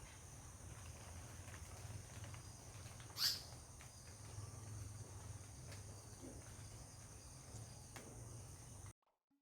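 A single short, sharp bird call about three seconds in, over a steady high-pitched insect drone and a low hum; the sound cuts off just before the end.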